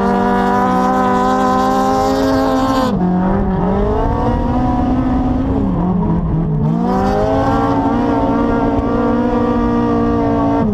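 Toyota AE86's 20-valve 4A-GE four-cylinder engine heard from inside the cabin while drifting, held at high revs. About three seconds in the revs drop sharply, dip twice more, then climb back and stay high.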